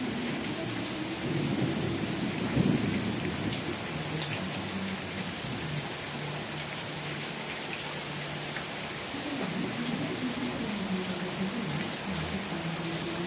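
Steady rain falling, with a low rumble underneath that swells about two seconds in and again near the end.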